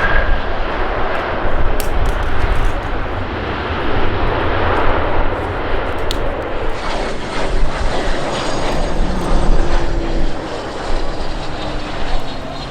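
Airplane passing close by, a loud, steady rush of engine noise, with a faint high whine falling in pitch in the second half.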